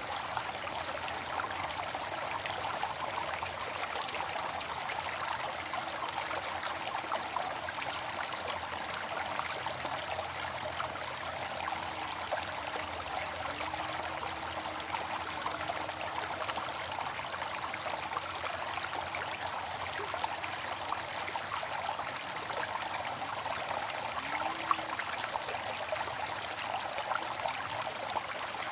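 Water fountain splashing and trickling steadily, a continuous patter of falling water.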